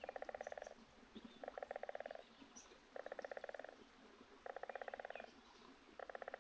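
A wild animal calling faintly: a short, rapid rattling trill about half a second long, repeated at an even pace about every second and a half, five times.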